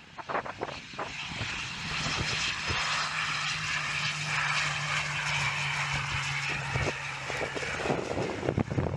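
Finnair ATR 72 twin turboprop passing during its landing, a steady low propeller hum with engine noise that holds from about two seconds in until near the end. Wind buffets the microphone throughout.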